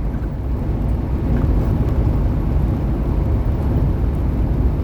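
Semi truck running at highway speed: a steady low rumble of engine and road noise.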